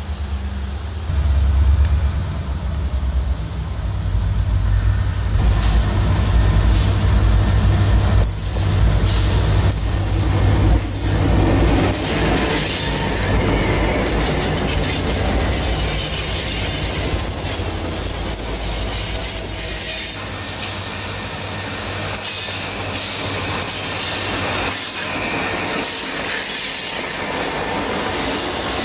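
Freight train passing close by: the diesel locomotives' engines rumble for the first ten seconds or so, then the cars roll past with steel wheels squealing and clanking on the rails.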